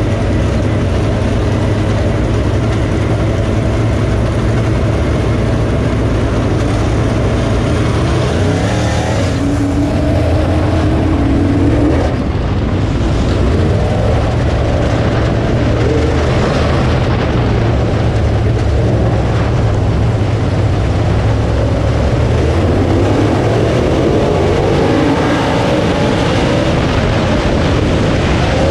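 Dirt late model race car's V8 engine running hard under load, heard as a loud steady drone, with a brief rise in pitch about ten seconds in.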